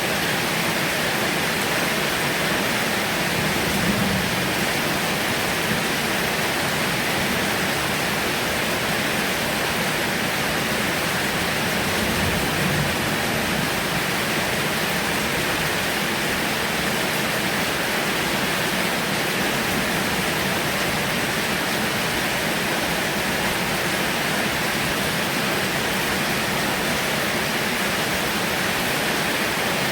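Heavy rain falling steadily, an even, unbroken hiss with no letup.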